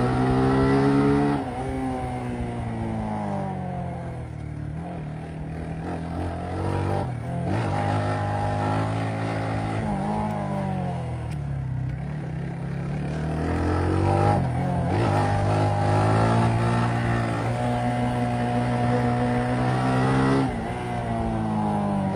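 Motorcycle engine revving up and down as it is ridden, its pitch climbing and falling several times. It drops sharply about a second in, holds high for a few seconds, then drops sharply again near the end.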